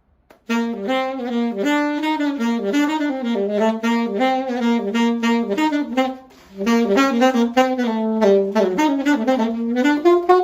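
Alto saxophone with a Rico mouthpiece playing a melody of separate notes in two phrases, with a short break about six seconds in; the second phrase climbs in pitch near the end.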